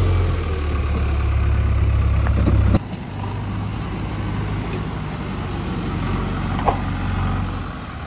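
Diesel engine of a JCB backhoe loader running with a steady low drone, which drops suddenly to a quieter level about three seconds in and keeps running. A single short click near the end.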